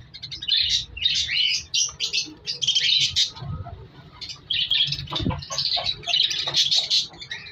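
Many budgerigars in a breeding colony chattering together: dense, rapid high chirps and warbles that thin out briefly a little before the middle.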